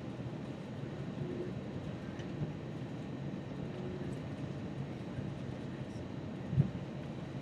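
Steady cabin rumble inside an Airbus A321 airliner, with one short thump about six and a half seconds in.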